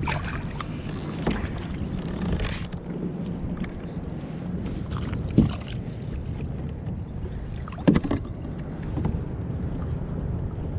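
Water and wind noise on a fishing kayak over a steady low hum, with a few noisy bursts of splashing or handling early on and two short knocks later, at about five and a half and eight seconds.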